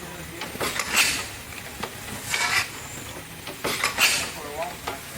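1890 Murray Iron Works Corliss steam engine running slowly, with a regular chuff of steam and valve-gear clatter about every three-quarters of a second, every other one louder, over a low steady rumble.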